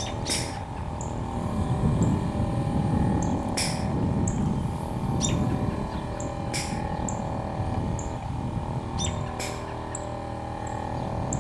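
Northern cardinal calling in a rhythmic pattern: sharp, high chip notes about every three seconds, with short high peeps between them. A low, steady rumble runs underneath.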